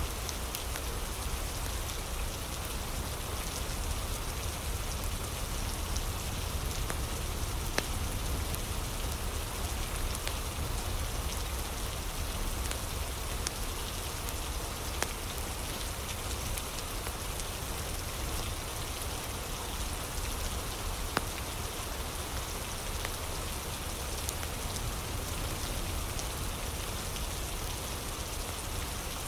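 Steady rain and a crackling fire: an even hiss of rain over a low rumble, with scattered sharp crackles and pops.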